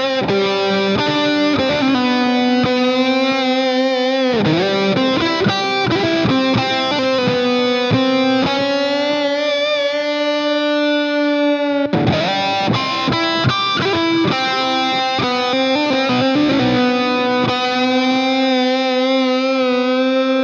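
Background music led by a distorted electric guitar playing long held notes, with pitch bends and vibrato.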